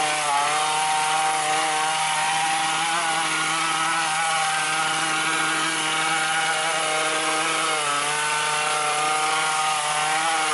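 McCulloch HT5622 hedge trimmer's small two-stroke engine running steadily under throttle, its carburettor freshly rebuilt, with a few brief dips in pitch.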